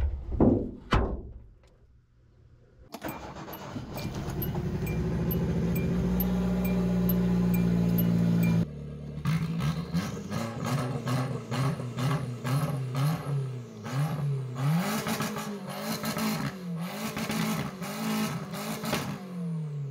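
Hyundai Accent's four-cylinder engine being revved while parked, heard from inside the cabin. About three seconds in it climbs to a steady held rev. After a cut it is blipped again and again, the pitch rising and falling repeatedly. A couple of brief whooshing sweeps come right at the start.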